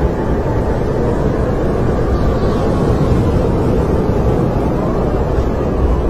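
Snowstorm wind blowing steadily, a low rumbling rush with a faint whistle that drifts in pitch.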